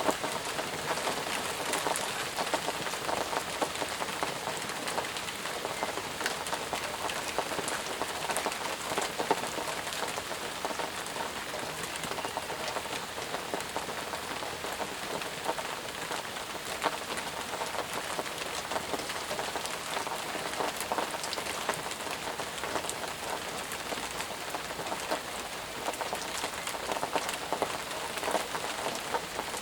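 Steady heavy rain falling, with many individual drops pattering close by over a continuous hiss.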